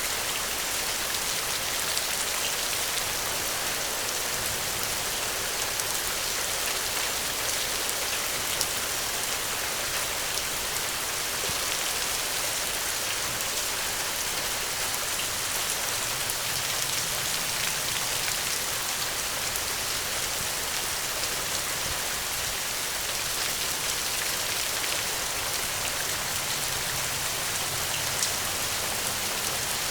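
Steady rain falling, an even hiss with occasional sharp drop ticks.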